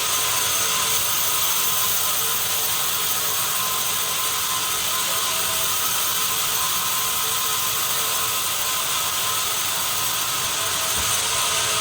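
Sawmill machinery running steadily: a continuous mechanical whine and hum made up of several steady tones, with no pauses or impacts.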